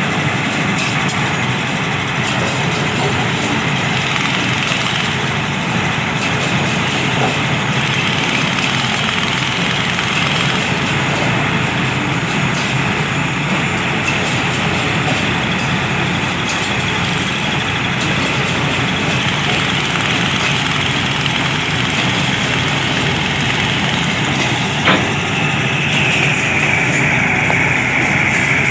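Heavy railway machine's engine running steadily, a constant loud mechanical noise. A single sharp knock comes near the end, followed by a higher hissing note.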